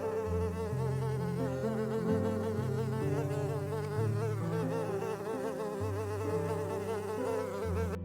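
A flying insect buzzing close by, its pitch wavering up and down steadily, over soft background music; the buzz stops abruptly at the end.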